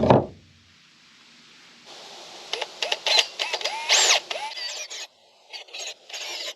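Power drill boring holes through the top of a steel hand truck, its whine rising and falling in pitch with rattling clicks, from about two seconds in until about five seconds in, followed by a few short knocks.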